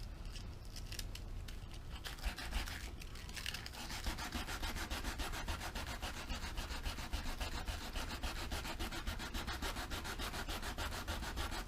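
Sandpaper scuffing the rubber surface of an inflatable kayak in fast, even strokes to prepare it for gluing. The strokes start about two seconds in.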